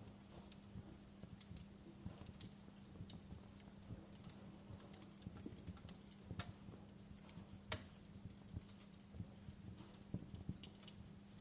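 Wood fire crackling: irregular small pops and snaps, one louder snap a little past the middle, over a faint steady low hum.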